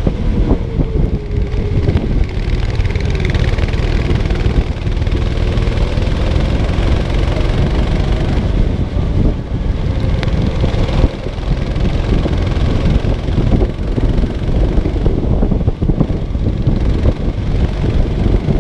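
Go-kart engine running under heavy wind buffeting on the microphone, its faint engine note rising and falling as the kart speeds up and slows.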